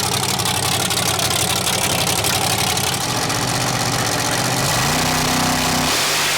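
Drag car's engine idling steadily. About three-quarters of the way through, its pitch steps up briefly, then drops back just before the end.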